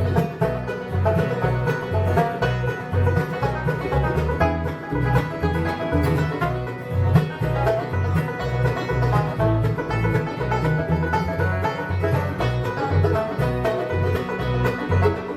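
Bluegrass band playing an instrumental intro: banjo and guitar picking over bass notes that fall evenly on the beat, about two a second.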